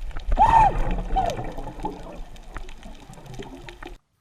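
Water splashing and sloshing, with a loud short cry from a person about half a second in. The sound cuts off abruptly near the end.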